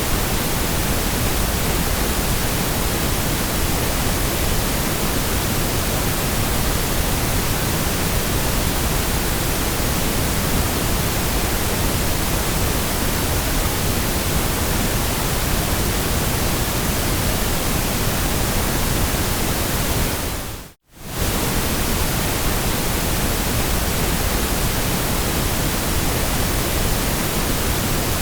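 Steady white noise, an even hiss across all pitches. It dips briefly to silence and fades straight back in about 21 seconds in.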